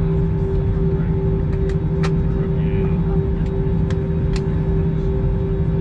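Steady low rumble and hum inside an Airbus A321's cabin, with a few short sharp clicks and knocks scattered through it.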